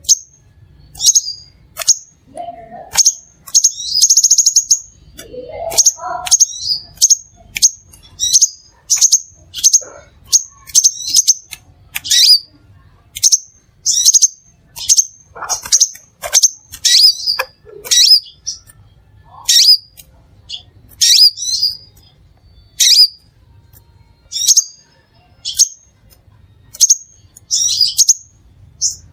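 Crimson sunbird calling: sharp, high chirps repeated about once or twice a second, with a short buzzy trill about four seconds in.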